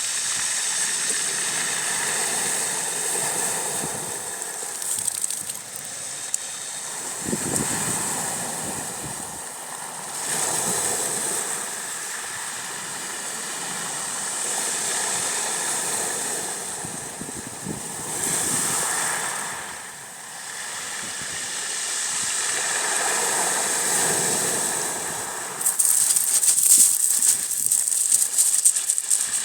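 Small waves washing onto a bay shore, each swelling and fading over a few seconds. Near the end a louder wave breaks with a crackling fizz.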